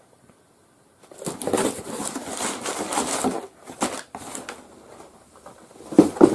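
Packaging rustling and crinkling as it is handled, starting about a second in, followed by a few light clicks and a sharper knock near the end.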